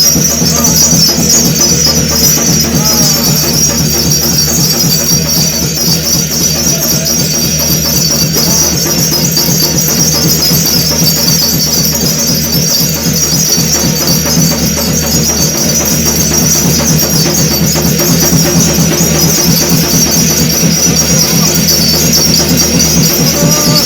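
Korean shaman ritual (gut) music: a janggu drum beaten in a fast, unbroken rhythm with jegeum hand cymbals shimmering continuously over it.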